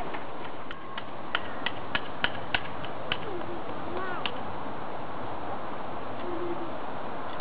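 A few short bird calls from water birds, each rising then falling in pitch, over a steady hiss. A run of sharp clicks sounds between about one and four and a half seconds in.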